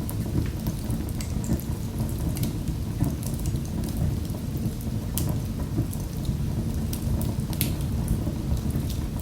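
Wood fire burning in a fireplace: a steady low rumble of flames with irregular crackling and sharp pops, a few louder pops scattered through.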